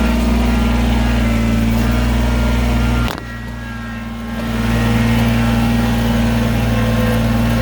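Chainsaw running at high revs while cutting firewood logs into rounds. About three seconds in it drops off suddenly, then builds back up about a second and a half later.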